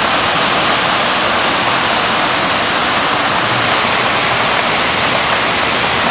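Heavy summer rain, a steady downpour on the tree foliage, an even rushing hiss that does not let up.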